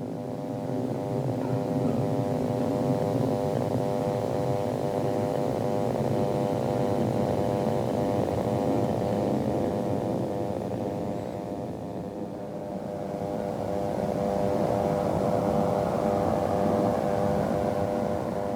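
Aircraft engines droning steadily with a buzzing, many-toned hum. It swells about two seconds in, eases off in the middle and swells again towards the end.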